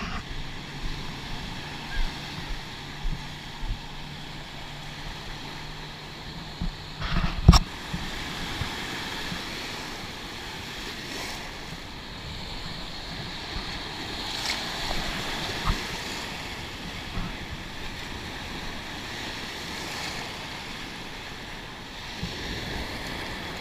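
Ocean surf washing onto the beach, a steady rush of waves with some wind on the microphone. A low steady hum runs under it for the first several seconds, and there is one sharp knock about seven and a half seconds in.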